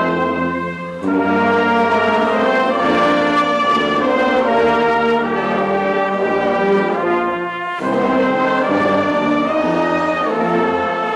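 High school marching band's brass section playing loud held chords, with short breaks between phrases about a second in and again near the end.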